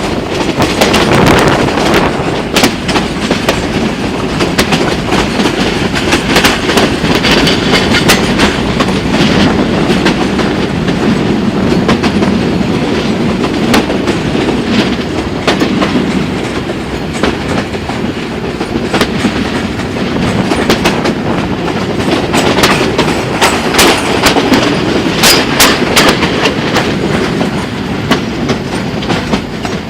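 Passenger train rolling along: a steady rumble of wheels on track, with frequent sharp, irregular knocks and rattles.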